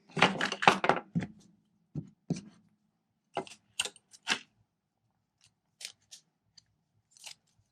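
Paper and plastic rustling and crinkling as glue dots are handled on the craft table, loudest in the first second, then a scattering of small clicks and crackles.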